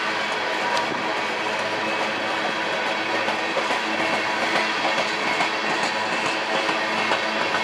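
Freight train rolling past: a steady din of steel wheels on rail, with scattered clicks from the rail joints.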